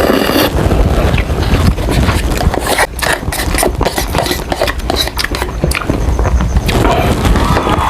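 Close-up eating sounds: biting and chewing crispy fried chicken, with a dense run of sharp crunches and wet mouth clicks.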